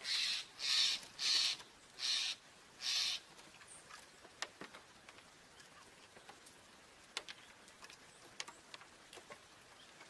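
A wild bird giving five harsh, rasping calls in quick succession, followed by faint scattered light ticks as birds move about on the hands and railing.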